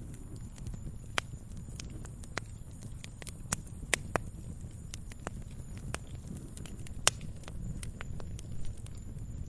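Campfire burning with irregular wood crackles and sharp pops over a low, steady rumble of flame.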